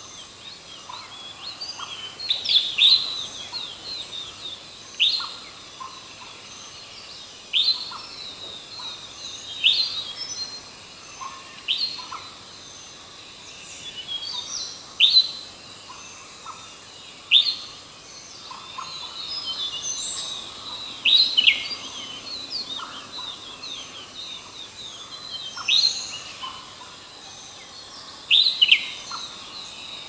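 A bird calling over and over, a short, sharp, upward-sweeping call about every two to three seconds, with fainter chirps from other birds in between.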